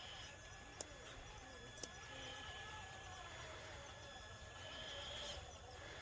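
RC tow truck's motor and geared drivetrain whining faintly in low gear as it pulls a load, the pitch wavering up and down with the throttle. Two sharp clicks about a second apart early on.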